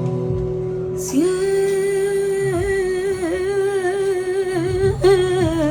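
A sustained guitar chord fades, then about a second in a woman's voice enters singing one long held, wordless note in flamenco style, wavering through quick melismatic ornaments.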